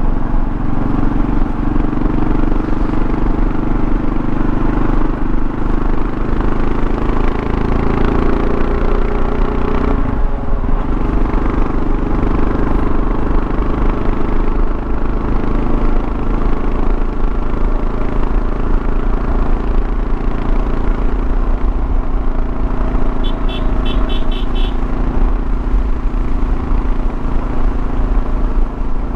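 2024 Kawasaki KLR650's single-cylinder engine running at a steady cruise, with wind and road noise. About ten seconds in, the engine note dips briefly and comes back up. About three quarters of the way through, a quick run of about six short high beeps.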